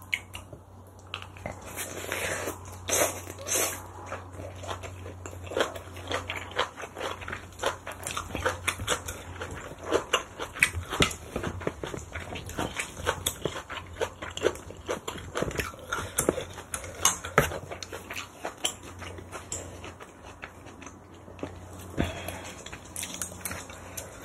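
Close-miked chewing of kimchi and rice: a dense run of wet smacks and small crunches from mouthfuls of fermented green-onion kimchi, with a sharp knock near the end.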